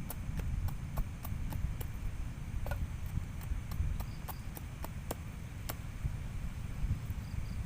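Irregular sharp ticks and knocks, about two or three a second, over a steady low rumble.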